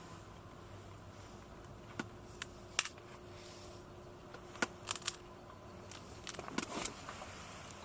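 Scattered short clicks and rustles of small objects being handled, over a faint steady hum.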